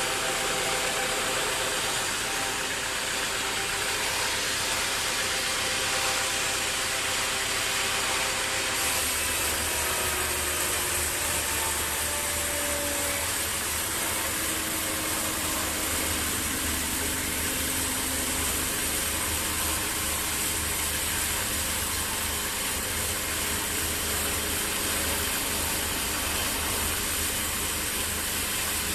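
Sawmill machinery running steadily with a mechanical hum and hiss; about nine seconds in the sound shifts and a deeper low hum comes in.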